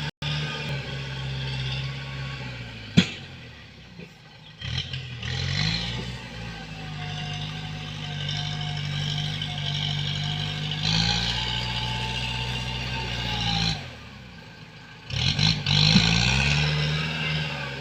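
A ZT 155 tractor's diesel engine running, its note sagging twice and then revving back up. There is a single sharp knock about three seconds in.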